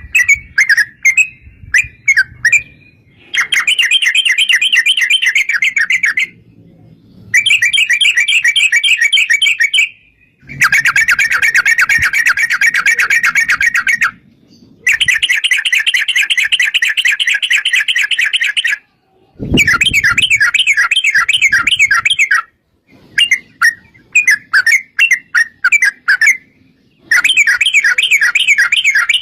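Yellow-vented bulbul (trucuk) singing long, rapid rolling runs of bubbling notes, each lasting a few seconds and separated by short pauses, with shorter scattered chirps between them.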